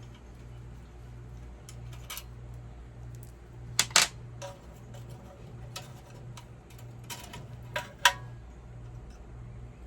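A wrench working the 10 mm bolt on a small engine's governor arm as it is loosened: sharp metal clicks, loudest as a pair about four seconds in and another pair near eight seconds, with lighter clicks between, over a steady low hum.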